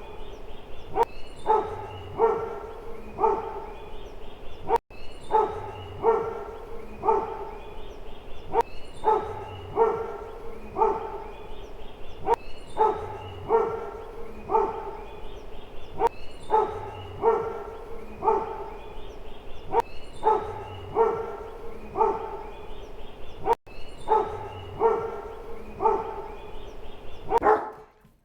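A dog barking over and over in a steady run of short barks, about two a second. The barking cuts out briefly about 5 seconds in and again near 24 seconds.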